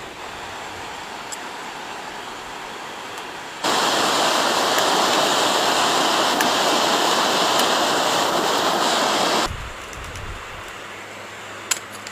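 Steady rushing noise, like running water, that jumps much louder about three and a half seconds in and drops back just as suddenly near the end, with a few faint clicks.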